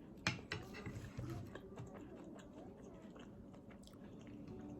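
Close-miked chewing of a mouthful of crispy fried potatoes: a crisp bite about a quarter second in, then soft, wet chewing with small clicks.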